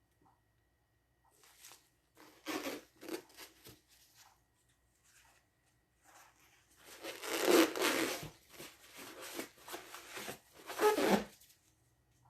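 Paper towel rustling and tearing in two bouts, the second longer and louder.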